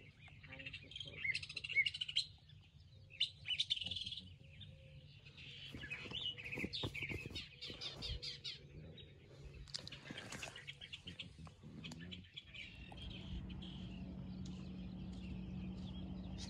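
Wild birds chirping and singing in short repeated calls, with scattered soft knocks and rustles; a steady low hum comes in about three-quarters of the way through.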